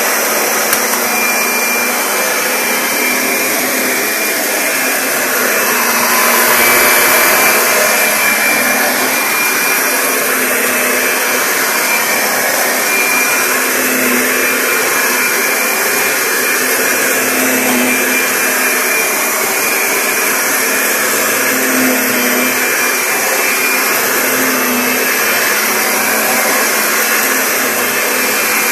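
Upright vacuum cleaner running on carpet: a loud, steady rush of motor and airflow with a faint high whine, and a low hum that swells every few seconds.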